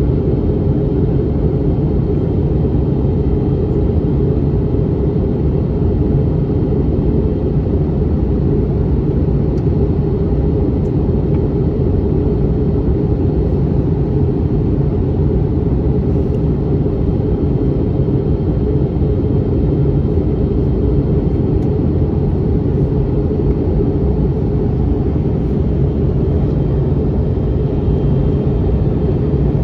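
Steady cabin noise inside an Airbus A321neoLR in flight: a constant low rumble of engines and airflow.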